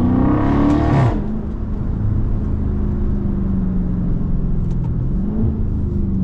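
Dodge Scat Pack's 6.4-litre HEMI V8 through a mid-muffler-deleted exhaust, at full acceleration with the revs climbing, then falling off abruptly about a second in. It then settles into a steady drone, with a slight climb in revs near the end.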